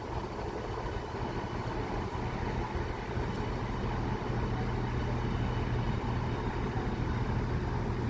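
Diesel multiple unit, a Class 171 Turbostar, idling at the platform with a steady low engine hum.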